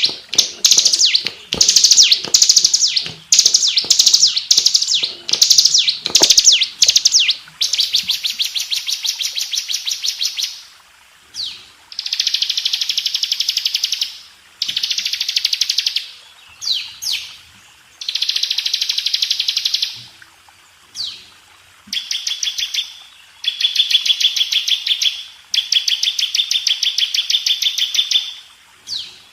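Bar-winged prinia (ciblek) singing loudly. First comes a quick run of short, repeated phrases, then long buzzing trills of two to three seconds each, separated by short pauses.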